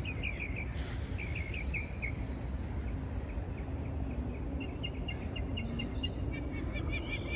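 Small birds chirping in quick runs of short, high notes, over a steady low background rumble.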